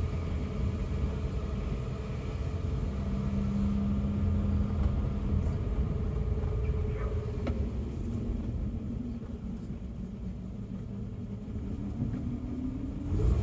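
Inside the cabin of a 1964 Mercedes-Benz 220 SB at low speed: its 2.2-litre straight-six engine runs steadily with a low rumble. The engine note drops about seven seconds in and rises again near the end.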